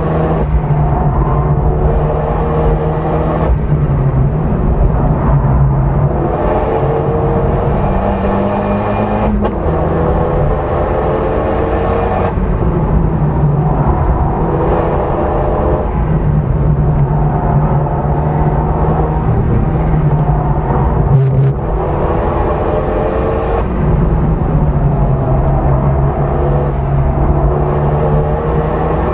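Renault Mégane RS's turbocharged four-cylinder engine, heard from inside the cabin under hard acceleration on track: it rises in pitch through each gear and drops sharply at every upshift, again and again, over steady tyre and road rumble.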